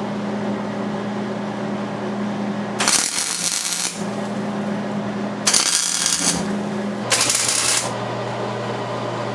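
Three short bursts of harsh hissing noise, each about a second long, over a steady hum.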